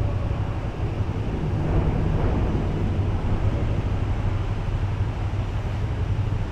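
KTM 1290 Super Duke's V-twin engine running steadily at low speed, with wind noise on the microphone.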